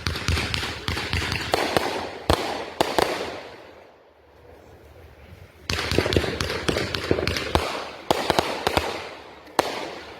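Consumer aerial fireworks going off: rapid sharp bangs and crackling in three bursts, the first fading to a lull about four seconds in, the next starting about six seconds in and another near the end.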